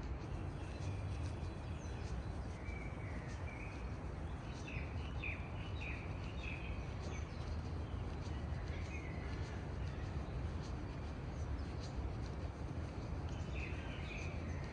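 Small birds chirping in short phrases, in clusters through the middle and again near the end, over a steady background hiss and low rumble.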